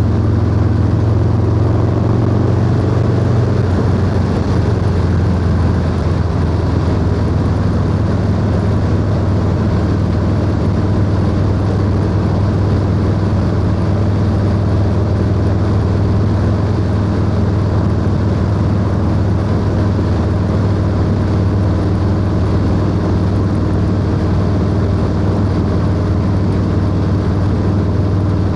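Harley-Davidson Low Rider S V-twin engine running at a steady cruise through a 2-into-1 exhaust, heard from the rider's seat. Its pitch drops slightly about three seconds in, then holds steady.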